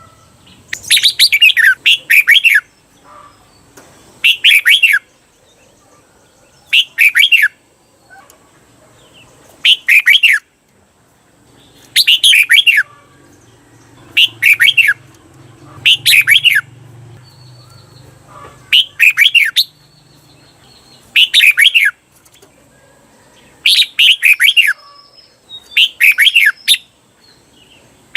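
Red-whiskered bulbul singing loud, short warbled phrases of quick sweeping notes, one every two to three seconds. Several phrases come twice in quick succession: the doubled 'เบิ้ล' song that keepers play to train caged bulbuls.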